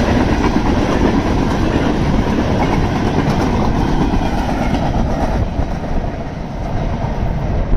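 Freight train cars rolling past: a steady rumble of steel wheels on rail with clicking over rail joints, dipping slightly in loudness past the middle.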